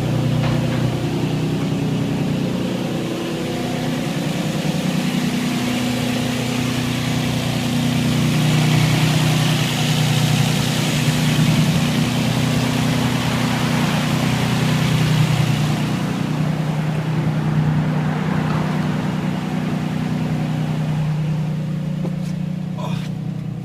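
The 3.5-litre V6 of a 2003 Nissan 350Z, breathing through an HKS aftermarket exhaust, idling steadily as it warms up. A broad hiss swells over the idle in the middle and fades about two-thirds of the way through.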